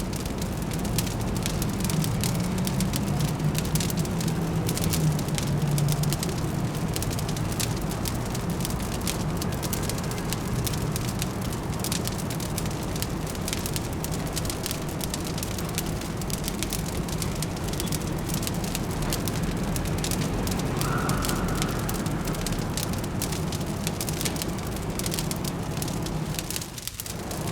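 Fireplace crackling steadily with dense, irregular pops over a low, even city hum. A short, faint high tone sounds about three-quarters of the way through.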